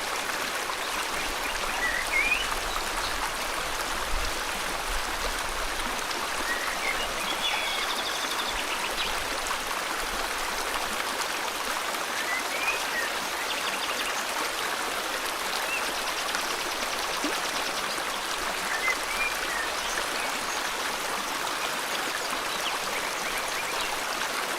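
River water flowing steadily, with birds giving short rising chirps every few seconds and a couple of higher trills.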